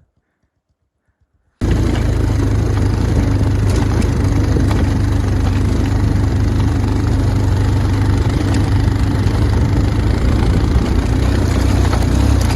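Motorcycle engine running steadily, cutting in suddenly about a second and a half in after near silence.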